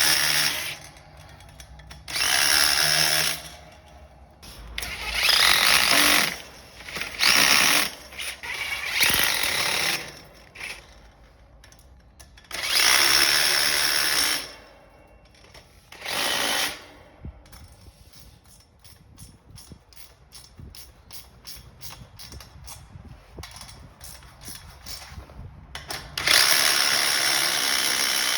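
Impact driver running in repeated bursts of one to two seconds, driving in fasteners. In the quieter stretch between bursts in the second half, a run of quick light clicks.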